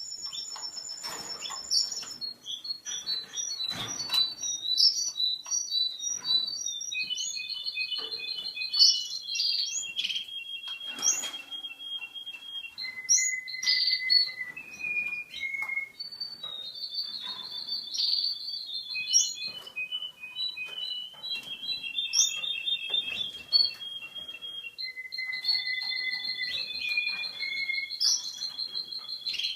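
A male Russian song canary in breeding condition singing a long continuous song of rapid trills. Each phrase is a quick run of identical notes held at one pitch, and the song steps to a new pitch from phrase to phrase, with short high upward sweeps between. Scattered sharp clicks and taps sound through it.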